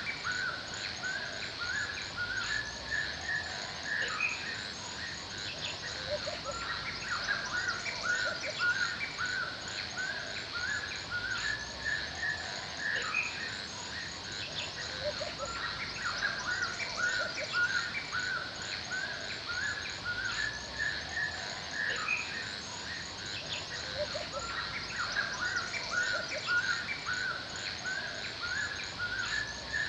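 Forest ambience: many small birds chirping and calling in overlapping short, repeated notes, over a steady high drone of insects.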